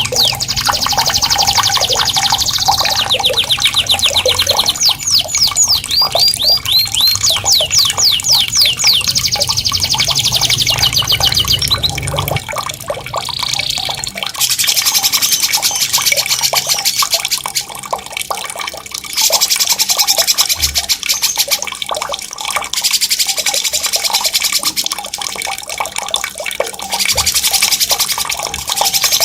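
A songbird singing long, fast rolling trills, strings of rapid high chirps repeated many times a second, with a steady sound of running water underneath.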